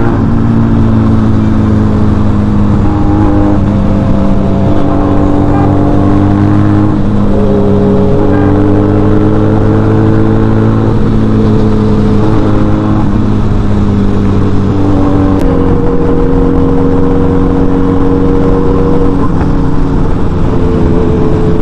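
Motorcycle engine running steadily under way, its pitch stepping up and down every few seconds as the speed changes.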